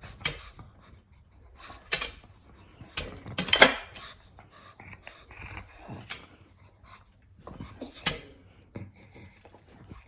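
A dog's short, irregular breathy sounds with light clicks, the loudest about three and a half seconds in.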